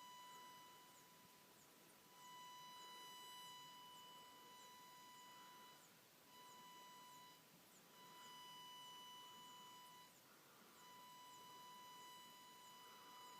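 Faint, steady high-pitched electronic buzz with a whistling edge, cutting out and coming back several times. The uploader hears it only when the flashlight shines on the mold; such a pure whine is typical of electronics such as the flashlight's LED driver rather than of the mold.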